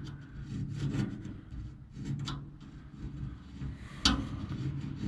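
Rubbing and scraping of hand work, likely cardboard being handled or cut for a hinge template, with a sharp click about four seconds in.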